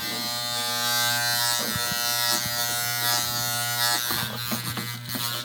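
Electric hair clippers buzzing steadily while being run over the face and beard, with rougher scratchy cutting sounds about four seconds in.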